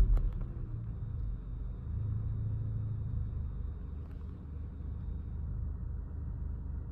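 Audi A4's 1.6 ALZ four-cylinder petrol engine dropping back from a rev in the first half second, then idling steadily.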